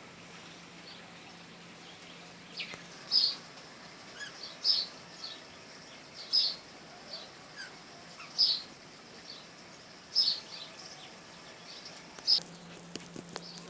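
A bird calling repeatedly: short, sharp, high-pitched calls about every two seconds, with fainter chirps between them.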